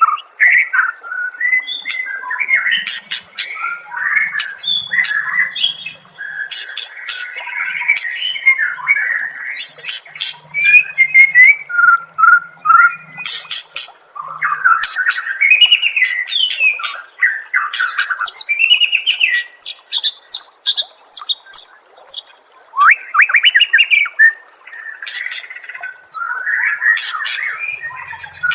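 White-rumped shama singing a long, varied run of whistled phrases with hardly a pause, broken by many sharp clicks and harsh rattling notes.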